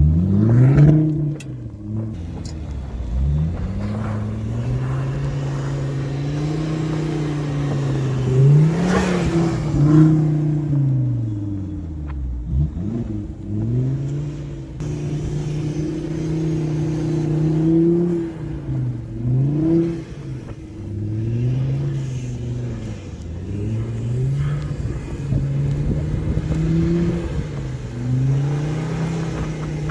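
A car engine revving up and down over and over as the car is spun in circles on snow, its pitch climbing and dropping every couple of seconds.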